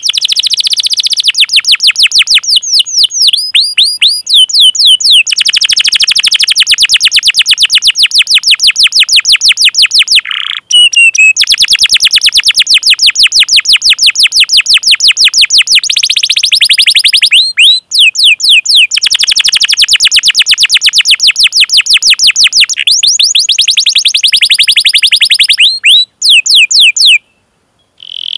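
Domestic canary singing a long, loud song of rapid repeated chirps and fast rolling trills, broken by a few short pauses.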